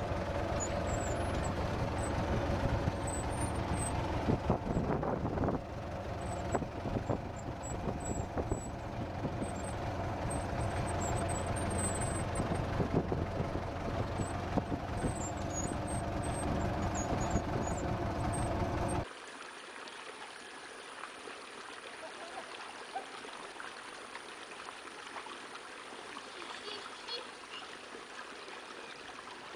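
A heavy machine's engine running steadily under load, with mechanical rattling; it cuts off abruptly about two-thirds of the way through, giving way to a quieter steady hiss.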